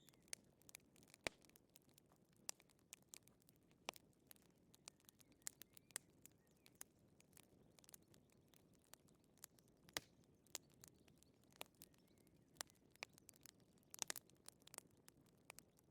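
Wood fire in a fireplace crackling softly: irregular small pops and snaps over a faint low hiss, with a quick cluster of pops near the end.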